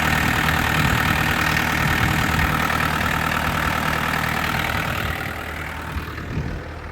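Holden Rodeo four-cylinder turbo diesel engine idling steadily while it warms up after a cold start. The sound grows quieter and duller about five seconds in.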